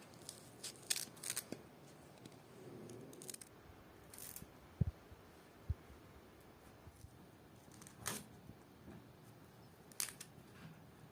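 Quiet handling noises of meal preparation: scattered short clicks, snips and scrapes, with two brief low knocks about five seconds in.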